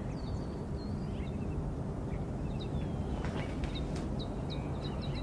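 Birds chirping, many short high calls scattered over a steady low background rumble, with no music under them.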